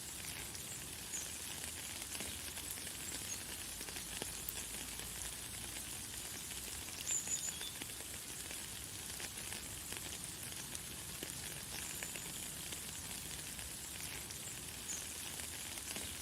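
Light, fine rain falling steadily as a high hiss of many small drop ticks, with a few short high bird chirps over it, the loudest about seven seconds in.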